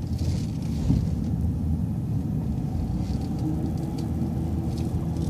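City transit bus driving slowly, with a steady low engine and road rumble.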